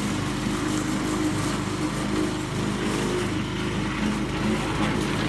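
A small vehicle engine running steadily at an even speed, with a constant low hum and a noisy hiss above it.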